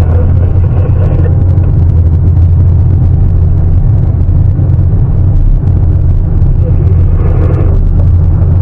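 Heavy diesel engine of a Sany 750 excavator running steadily, a loud, even low drone.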